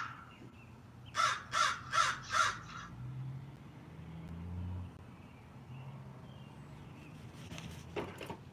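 Crow cawing four times in quick succession, about a second in, the harsh calls evenly spaced.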